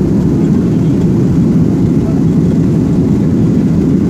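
Steady low rumble of an airliner's engines heard from inside the passenger cabin.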